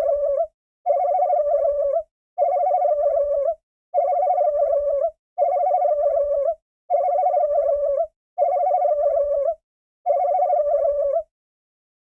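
A warbling, buzzy call-like tone repeated eight times in identical bursts of about a second each, one every second and a half, then stops.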